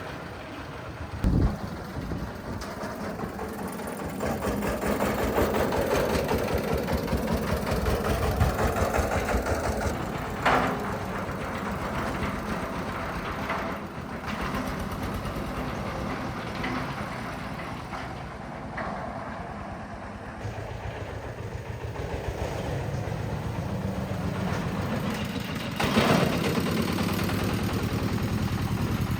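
An engine running steadily, with a few sharp knocks.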